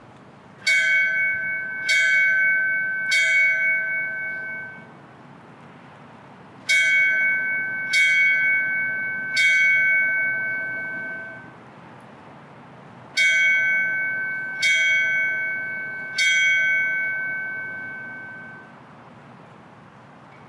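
A fire bell struck in three sets of three rings, each strike ringing on and slowly fading, with a pause between sets: the traditional fire-service 3-3-3 signal dedicating a new fire engine.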